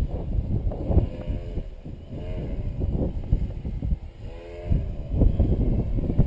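Wind buffeting the microphone in a low, gusting rumble, with the whine of an RC plane's electric motor and propeller rising and falling in pitch several times as the plane flies past.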